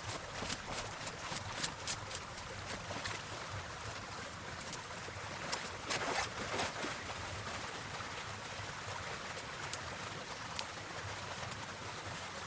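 Creek water flowing steadily, with dead twigs and branches crackling and snapping as brush is handled in the first few seconds, and a louder rustling swell of brush about six seconds in.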